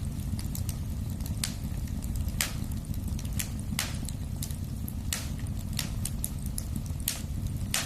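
Fireplace fire burning: sharp crackles and pops at irregular intervals, roughly one a second, over a steady low rumble.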